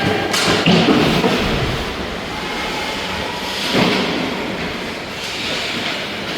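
Steady rush of game noise in a sports arena, with dull thuds standing out about half a second in and again about four seconds in.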